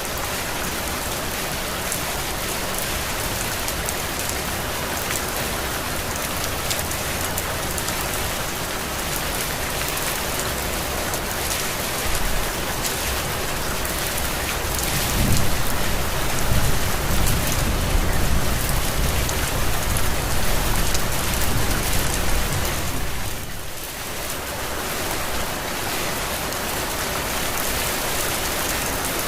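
Heavy rain falling steadily, an even hiss, with a low rumble swelling for several seconds about halfway through.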